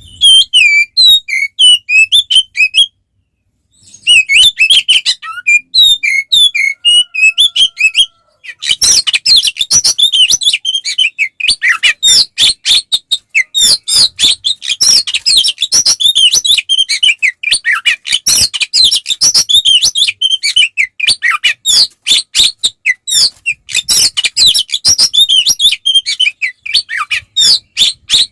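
Oriental magpie-robin (kacer) in full, aggressive fighting song: a loud, fast stream of varied whistles and chirps. It breaks off briefly about three seconds in. From about nine seconds on the notes come in a dense, rapid run.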